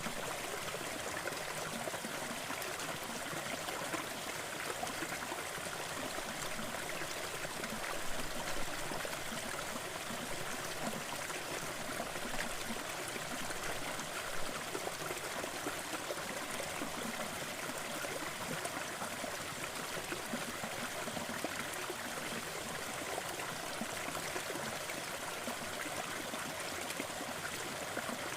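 Crackling fireplace mixed with a steady rushing noise bed. A few slightly louder pops come about a third of the way in and again near the middle.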